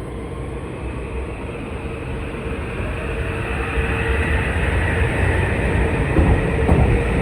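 Metro-North commuter train moving along the track, its rumble and rail noise growing steadily louder, with a steady hum under it.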